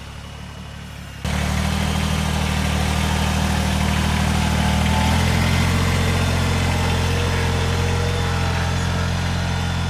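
Kubota BX2380 sub-compact tractor's three-cylinder diesel engine running steadily; the sound jumps suddenly louder about a second in, and its pitch shifts slightly around five seconds in.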